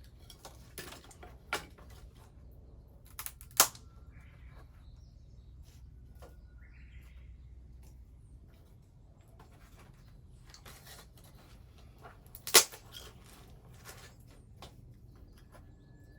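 Wood fire crackling, with scattered sharp pops; the two loudest pops come about three and a half seconds in and near the twelve-and-a-half-second mark.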